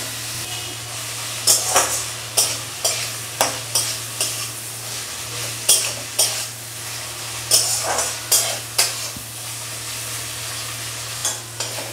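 Sliced onion and tomato frying in mustard oil in a metal kadai: a steady sizzle, with a spatula stirring and scraping against the pan in irregular strokes. The onion is being fried until soft and light brown.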